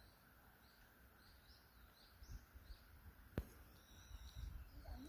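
Faint bird chirps: a run of short high notes, then longer, steadier high calls near the end. A single sharp click about midway.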